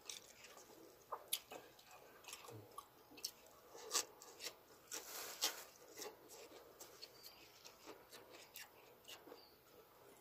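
A person chewing food with the mouth closed, close to the microphone: faint, scattered soft mouth clicks, a little louder around four and five seconds in.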